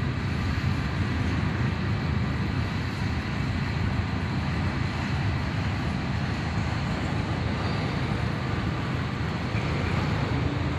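Cars of a long freight manifest train rolling past, a steady low rumble.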